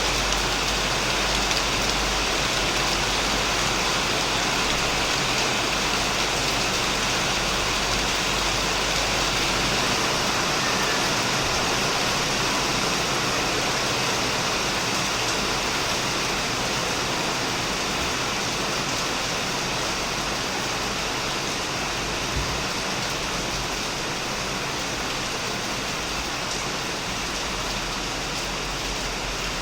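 Heavy rain falling steadily on a shed roof, a dense even hiss of drops.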